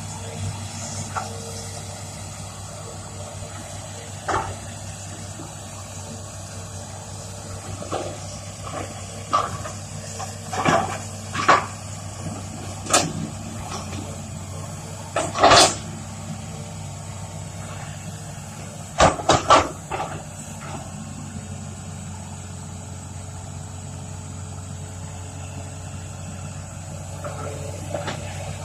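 Hitachi Zaxis 200-5G excavator's Isuzu 6BG six-cylinder diesel running steadily under work, with sharp metal knocks and clanks coming irregularly, in clusters about ten, fifteen and nineteen seconds in.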